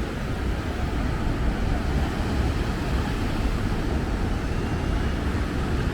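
Steady low rumble of wind buffeting the microphone over a continuous wash of beach surf.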